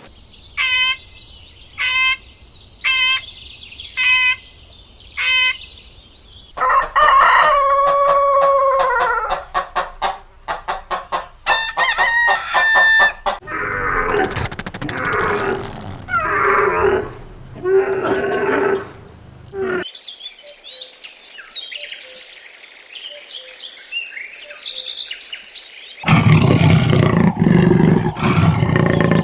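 Chickens calling in a quick series of cut-together clips: short calls repeated about once a second, a long crow, and rapid clucking. Other animal calls follow, with faint high chirping, and a loud low call starts near the end.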